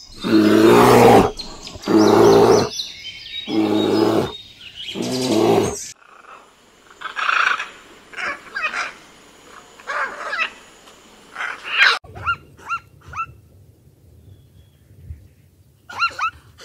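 Brown bear roaring four times, each call about a second long. Then a red-and-green macaw squawking several times in short, harsh calls. Near the end come a few short, falling barking calls from zebras over a low hum.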